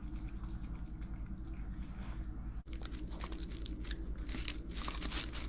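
A dog chewing and crunching through a duck head and neck, the bones cracking in crisp bites that come thicker in the second half, over a steady low hum.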